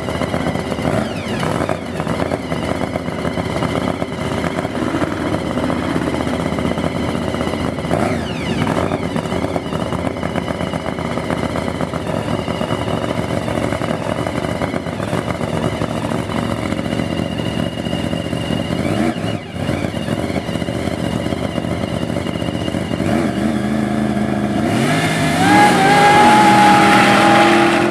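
Hot rod engines running steadily. Near the end one engine grows louder as it revs up and back down.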